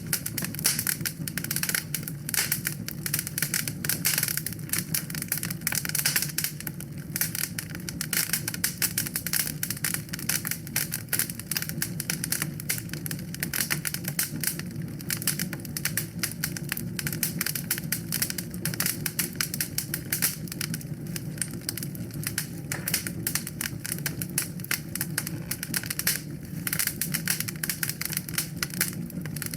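Wood fire crackling in a fireplace: dense, irregular pops and snaps over a steady low rumble of burning.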